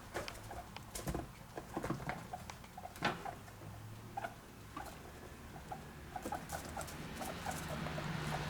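Guinea pigs munching, a quick irregular run of small crunching clicks, with short faint squeaky notes among them.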